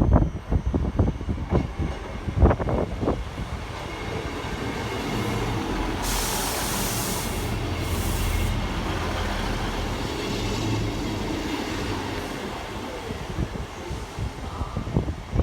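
A train moving past on the track: a quick run of sharp knocks in the first few seconds, then a steady rumble with a loud hiss about six to eight and a half seconds in.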